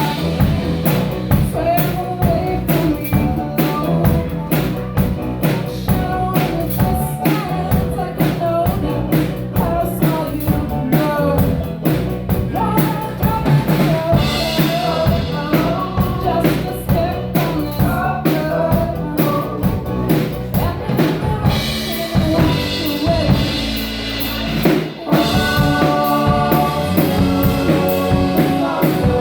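A band playing a song with a steady drum-kit beat of bass drum and snare, with a sung melody over it. About three-quarters of the way through, the music drops out for a moment and comes back fuller.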